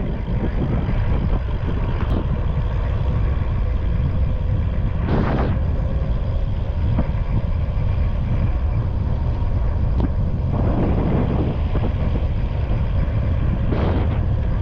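Steady low rumble of riding along a road, wind buffeting the microphone over road noise, with brief louder swells about five seconds in and again near the end.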